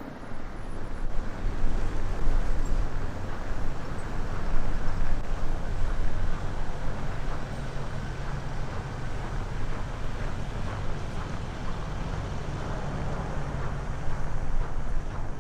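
Windstorm gusts buffeting the camera microphone through a windshield that cannot cope: a loud, low rumbling noise that swells and eases. It jumps up sharply just after the start.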